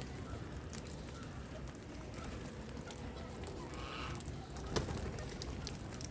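Birds at a feeding spot: scattered small clicks and taps, one short harsh bird call about four seconds in, and a sharp knock just before five seconds, over a steady low rumble.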